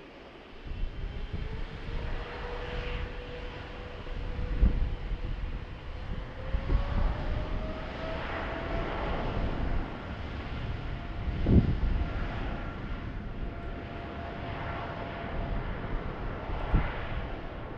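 Jet engines of a Boeing 777-300ER (GE90-115B turbofans) running at takeoff power: a steady jet roar carrying a whine that rises in pitch partway through. Gusts thump on the microphone several times.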